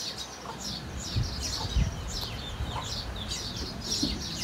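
Small birds chirping: a dense, steady run of short, quick, falling chirps, several birds at once, over a low rumble with a few dull thuds.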